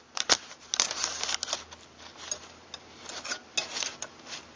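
Metal parts of pump-action shotguns being handled: a run of sharp clicks and short scraping rubs, the loudest click about a third of a second in.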